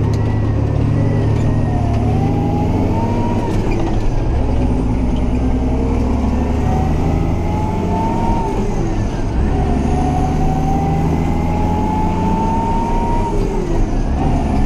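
Massey Ferguson 6270 tractor pulling a heavily loaded grain trailer, engine running steadily under load with a whine that climbs in pitch and drops back three times as it gathers speed.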